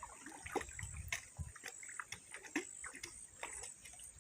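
Faint, irregular small splashes and knocks over water trickling, as of movement through a shallow stream.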